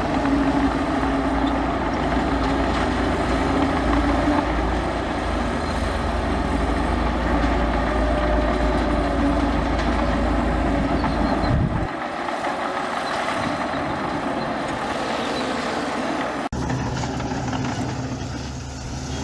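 Heavy diesel earthmoving machinery running. A deep engine rumble cuts off suddenly about twelve seconds in, leaving lighter mechanical engine noise, and a low engine sound cuts back in abruptly a few seconds later.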